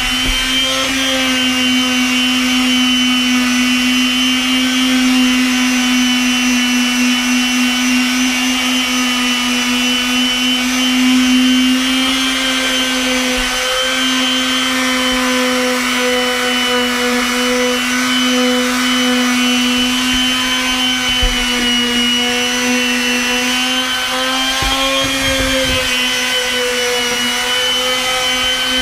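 Makita random orbit palm sander running steadily as it sands wooden deck boards, its motor's pitch holding steady apart from a brief dip about halfway through.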